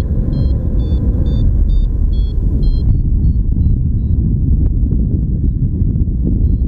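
Wind rushing over the microphone in flight as a loud, steady low rumble, with a flight variometer beeping about three times a second for the first three seconds, the sign of climbing lift, then only faint, scattered beeps.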